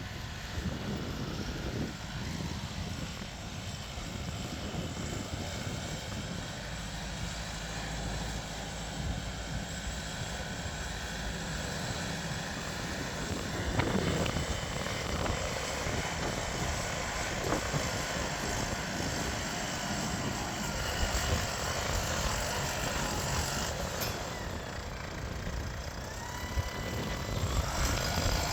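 Deutz-Fahr 5125G tractor's diesel engine running steadily as the tractor works, with a brief knock about halfway through.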